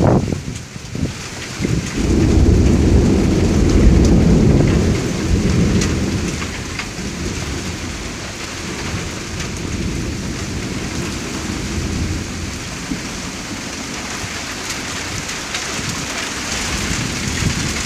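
Thunder rolling over steady rain: a deep rumble builds about two seconds in, peaks over the next few seconds, then dies away slowly while the rain keeps falling.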